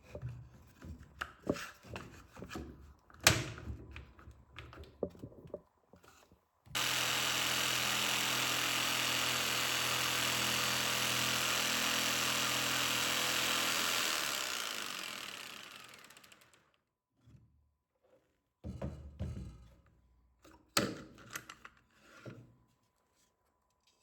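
A handheld power tool's motor runs steadily for about seven seconds, then winds down and stops. Before and after it come scattered knocks and clicks of tools and wood being handled.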